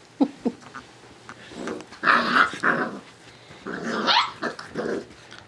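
Six-week-old yellow Labrador Retriever puppies play-fighting: two short yaps just after the start, then two bouts of growling with high-pitched yelps, the second about four seconds in.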